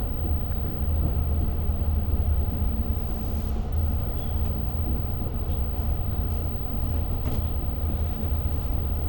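Long Island Rail Road diesel-hauled passenger train running between stations, heard from inside the coach: a steady low rumble with the hiss of the moving train and a few faint clicks.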